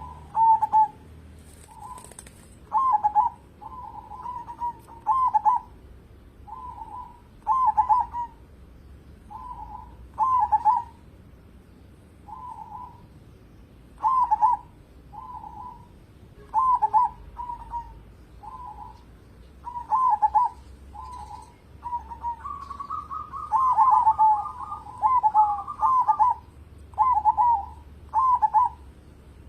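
Zebra dove (perkutut) cooing: short rippling phrases repeated every one to two seconds, with a second, higher voice overlapping the calls about three quarters of the way through.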